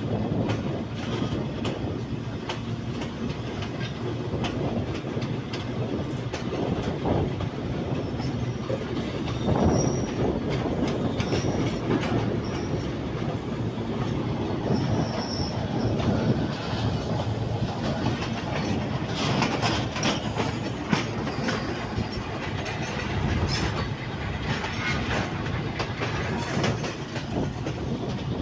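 Passenger train running on the line: a steady rumble of the coaches with the wheels clacking over rail joints, and a few short high wheel squeals in the first half.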